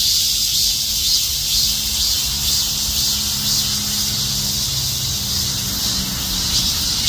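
Cicadas buzzing in a steady, unbroken high-pitched drone, with a faint low hum underneath.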